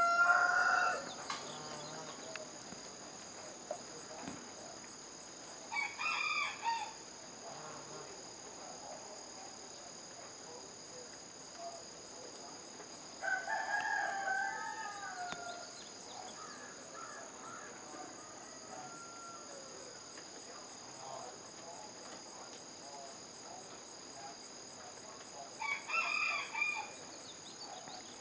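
A bird calling four times, the longest call lasting about two seconds, over a steady high-pitched insect drone.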